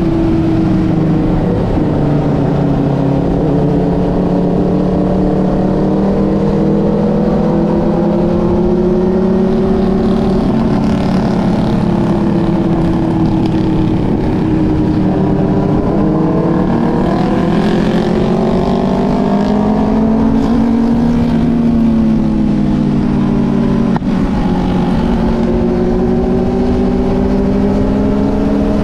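Motorcycle engine running steadily, its pitch rising and falling slowly with the revs.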